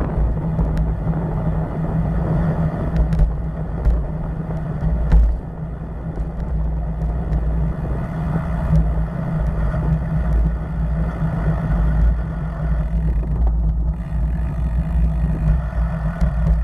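Steady loud low rumble of road noise while riding on a road, with wind buffeting the microphone and motor traffic, and a few light clicks.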